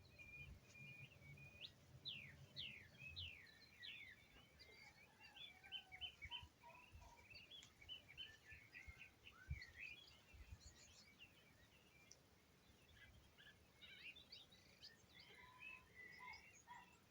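Faint dawn chorus: several songbirds chirping and singing in quick, overlapping notes. A low rumble runs under the first few seconds, and a single low thump sounds about halfway.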